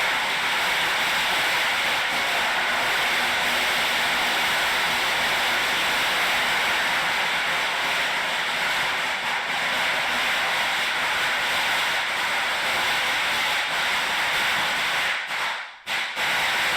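A steady, loud hissing noise, like static or rushing air, that starts abruptly and drops out briefly near the end.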